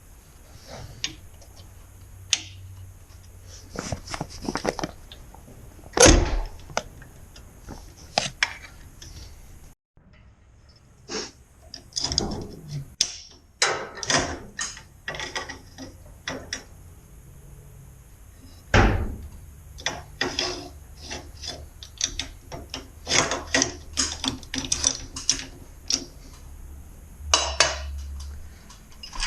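Hand tools and hardware being worked while a garage door opener's arm and bracket are fastened to the door: irregular clicks, clanks and knocks, a couple of them sharp and loud.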